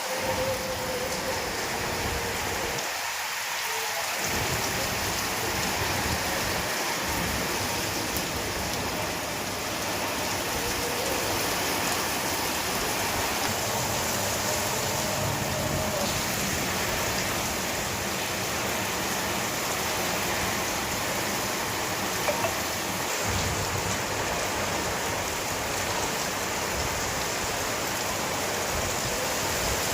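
Steady rain falling, with strong wind.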